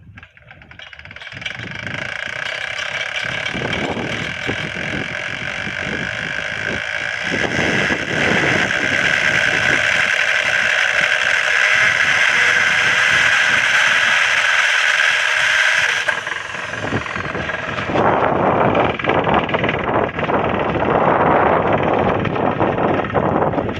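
Small high-speed rotor of a homemade magnetic-gravity motor model spinning with a steady high whine, building over the first few seconds and cutting off about two-thirds of the way through. A rough, crackling rustle follows near the end.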